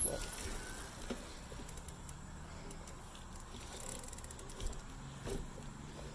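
Bicycle rear freewheel ticking faintly as the bike coasts, after a brief sharp high squeak right at the start.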